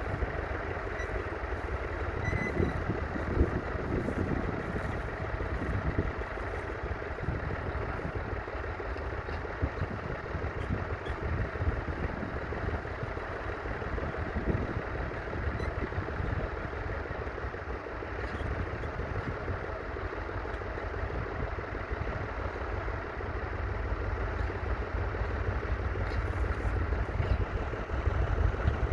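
International Harvester McCormick B275's 2.3-litre four-cylinder diesel engine running steadily, getting a little louder near the end.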